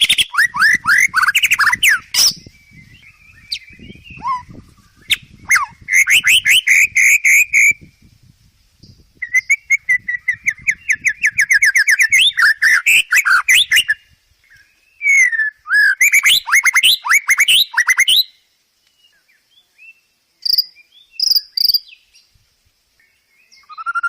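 Songbird song in loud phrases of fast, rapidly repeated chirping notes: four phrases of two to five seconds with short pauses between them, then a few brief notes near the end.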